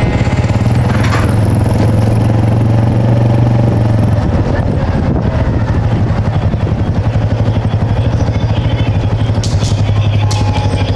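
Honda Super Cub's small four-stroke single-cylinder engine running steadily.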